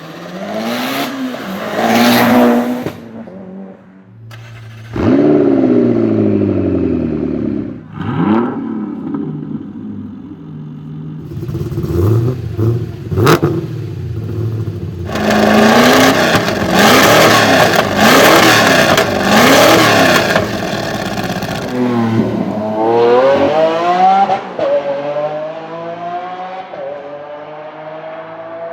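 Supercar engines revving hard: several throttle blips with the pitch shooting up and falling back, then a run of quick revs about once a second. Near the end the engine pulls at full throttle through a gear change, its pitch climbing steadily.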